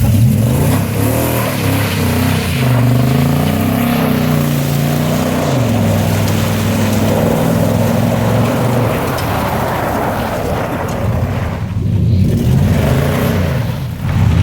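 Chevrolet pickup engine through a loud modified exhaust, revving up and down again and again as the truck is driven hard through mud, with a short let-off of the throttle near the end.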